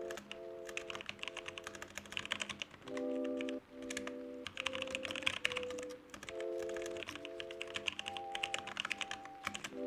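Computer keyboard typing in quick runs of keystrokes, over background music of sustained chords that change about every half second.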